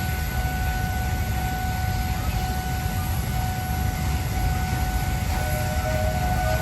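Steady low rumble of a train hauled by a pair of Pacific steam locomotives, Nos. 824 and 850, with a faint steady tone above it; near the end a whistle starts to sound, rising a little in pitch.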